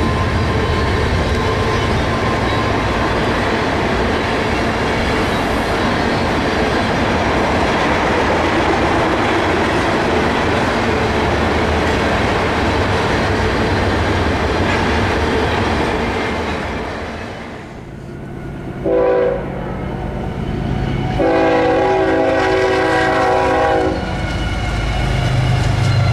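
Freight train passing on the mainline, wheels and cars clattering steadily, fading out after about 17 seconds. Then a locomotive air horn sounds, several tones at once: one short blast, then a longer one of about three seconds, and a low locomotive rumble rises again near the end.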